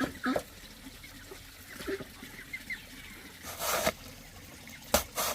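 Farm poultry calling with short clucks and chirps, then a brief rustling burst about three and a half seconds in and two sharp knocks near the end.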